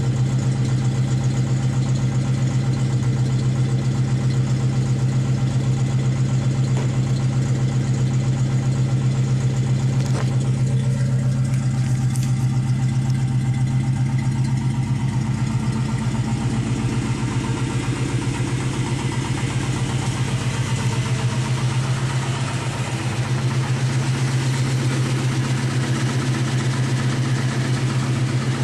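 1966 Ford Mustang's 289 small-block V8 idling steadily through a Flowmaster American Thunder exhaust.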